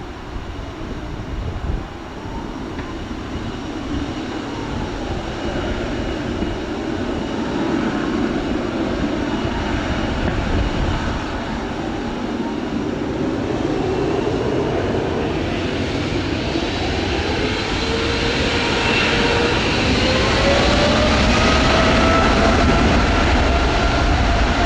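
Boeing 777-200F freighter's twin GE90 turbofans spooling up for take-off: a deep jet rumble with whining tones that rise in pitch and grow louder over the last third.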